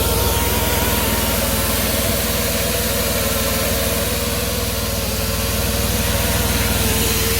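Fiber-optic cable blowing rig running steadily: an engine-like hum with a steady whine held at one pitch.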